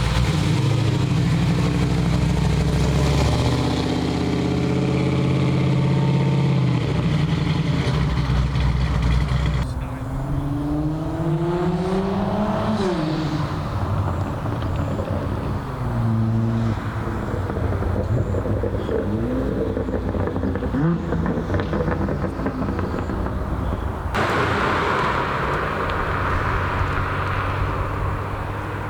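Car engines running and revving as cars pull away, one after another. About a third of the way in, one engine climbs steadily in pitch under acceleration, then drops off sharply.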